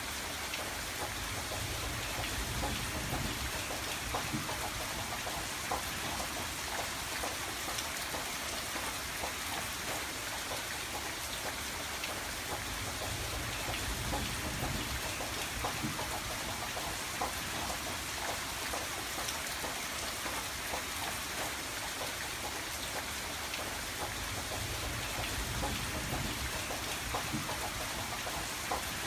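Steady rain on a window, a dense patter of drops with a soft low rumble that swells and fades every few seconds.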